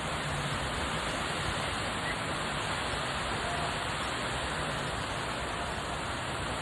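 Heavy rain falling hard and steadily, an even, unbroken hiss.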